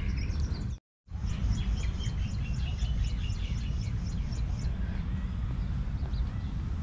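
Small birds chirping in a run of quick, repeated high notes over a steady low rumble on the microphone. The sound cuts out completely for a moment about a second in.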